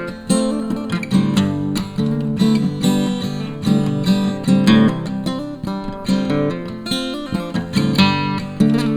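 Strummed acoustic guitar playing an instrumental passage between sung verses.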